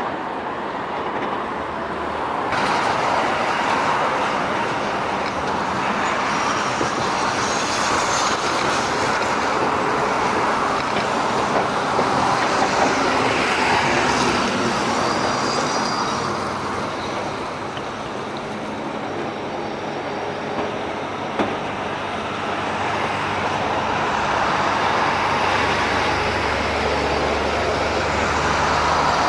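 Project 302MK river cruise ship under way, its engines giving a steady low drone beneath a broad rushing noise that swells and eases.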